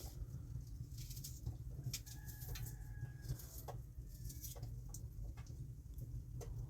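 Scattered light ticks and patter over a steady low rumble, with one held bird call lasting about a second, about two seconds in.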